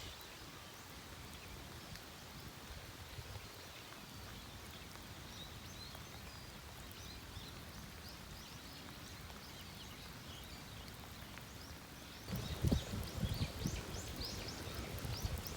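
Outdoor ambience in light rain, with faint bird chirps. About twelve seconds in, louder rustling and knocks start close to the microphone.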